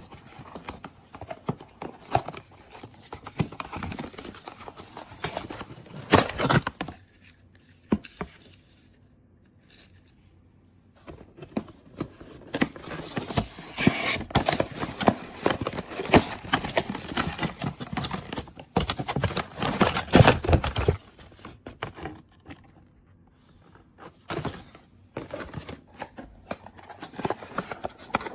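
Irregular handling noises: scrapes, taps and crinkles coming in busy bursts, with a quiet pause about a third of the way in and another about three-quarters of the way through.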